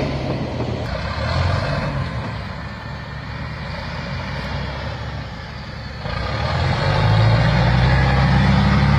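Heavy diesel engine working; it eases off for a few seconds mid-way, then revs up louder with a rising note about six seconds in and holds there.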